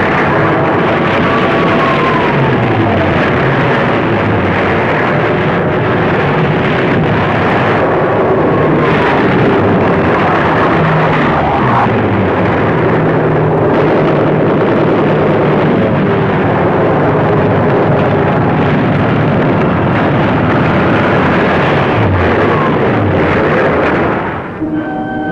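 Battle sound of an air raid: propeller aircraft engines diving and passing overhead, their pitch falling again and again, over a continuous din of explosions.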